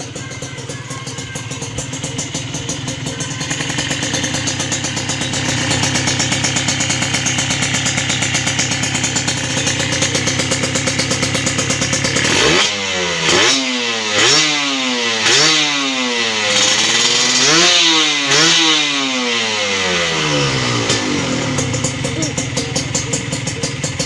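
Kawasaki Ninja R two-stroke single idling through an aftermarket exhaust. Partway through, the throttle is blipped about six times in quick succession, the pitch rising and falling with each, before it settles back to idle.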